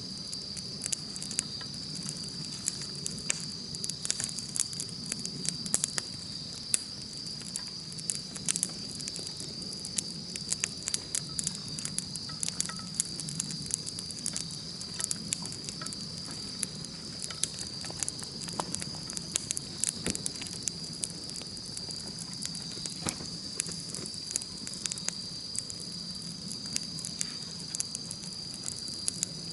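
Campfire burning with frequent sharp crackles and pops over a low rumble of the flames, against a steady high-pitched insect trill.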